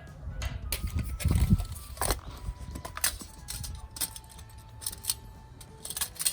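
Irregular light knocks and clacks of wooden pieces and gear being handled, with a few low thumps.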